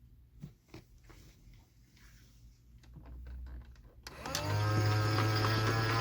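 AEG/Electrolux Lavamat 84950 front-loading washing machine standing still with a few light clicks. About four seconds in, a motor starts with a brief rising whine and settles into a loud, steady hum, typical of the drain pump starting to empty the main-wash water before the spin.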